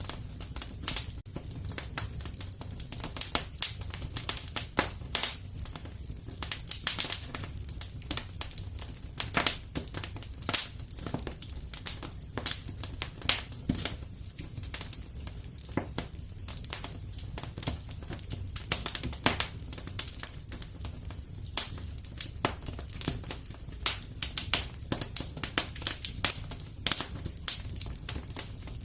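Wood fire crackling in a fireplace: irregular sharp crackles and pops, several a second, over a steady low rumble of the flames.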